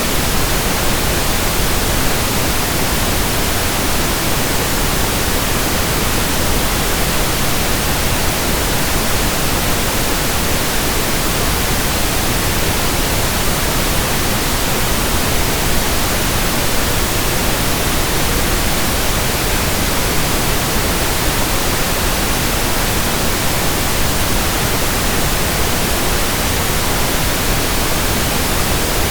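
Steady pink noise, an even, unchanging hiss spread across all pitches.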